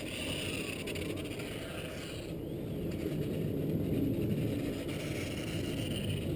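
Strong wind rumbling and buffeting on the microphone, over the faint high whine of the Edge 540 V3 model plane's electric motor and propeller, its pitch rising and falling as the plane flies around.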